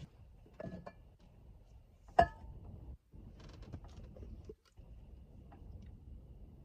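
Small hard objects being handled: a few light knocks, one loud ringing clink about two seconds in, and a quick run of ticks a little later, over a low background rumble.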